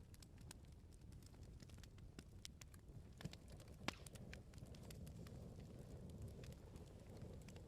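Wood campfire crackling, with frequent small snaps and pops over a low, steady rumble of flames. Two sharper pops come a little past the middle.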